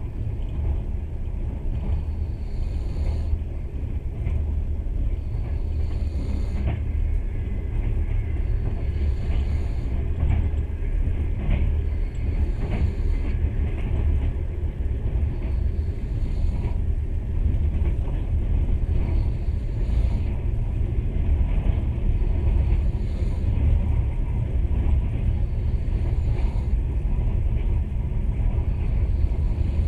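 Passenger train running steadily, its low rumble heard from inside the carriage, with a faint high hiss returning every three seconds or so.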